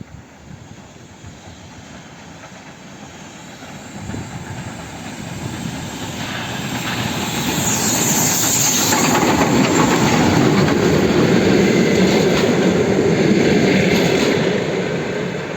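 L-class steam locomotive hauling a passenger train past on the rails, its sound building from about four seconds in, loudest in the middle and fading near the end.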